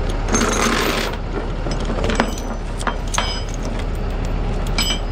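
Steel tie-down chains and hooks clinking and clanking as they are handled, a few sharp metallic clinks that ring briefly, over a steady low engine hum.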